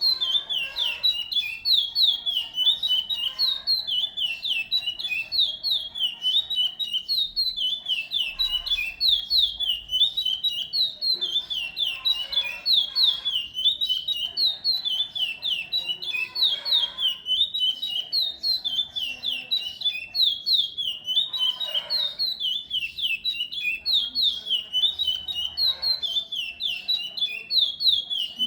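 A songbird singing without pause: a fast, unbroken string of short, high, downward-slurred notes.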